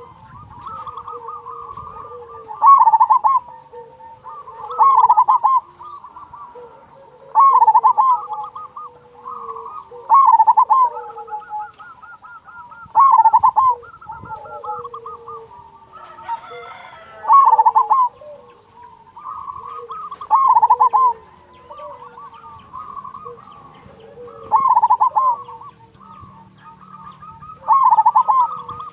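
Zebra doves (perkutut) cooing: one bird gives about nine loud, bubbling coos, each lasting under a second, with a new one every two to three seconds. Softer cooing from other doves runs beneath them.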